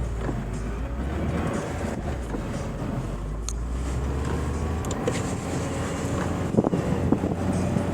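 Chevrolet Niva's engine running as the car drives through snow, with a couple of sharp knocks about six and a half to seven seconds in.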